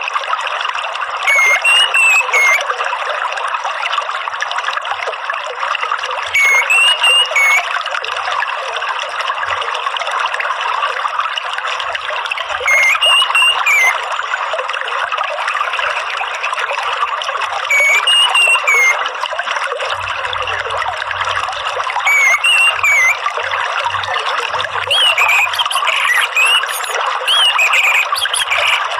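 Steady running, trickling water with short whistled orange-headed thrush (anis merah) phrases repeating about every five seconds, coming closer together near the end.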